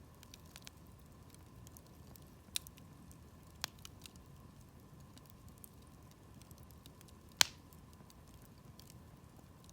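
Wood campfire crackling: sparse sharp pops and ticks, with one much louder pop about seven seconds in.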